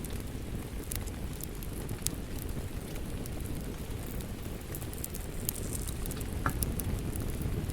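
Wood fire crackling in a fireplace: a steady low rumble of flames with scattered sharp pops and snaps throughout.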